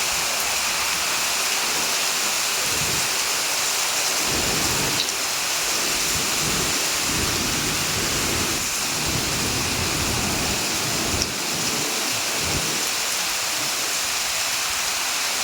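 Heavy rain falling steadily, a dense even hiss, with irregular low rumbling underneath.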